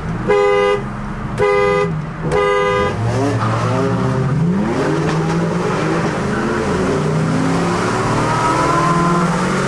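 A car horn honks three times in quick succession. Then cars accelerate hard, their engine pitch climbing again and again through the gears.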